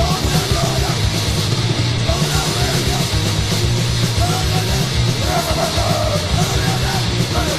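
1980s Swedish hardcore punk recording: distorted electric guitar, bass and a fast, steady drum beat played at full tilt, with shouted vocals.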